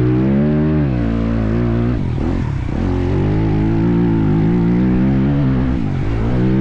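Motocross bike engine revving hard, its pitch climbing and falling with the throttle; it drops off briefly about two seconds in and again near the end before picking back up.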